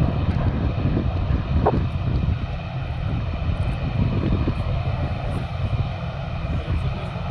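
Aircraft engines running with a steady drone and a faint high whine, easing off slightly toward the end.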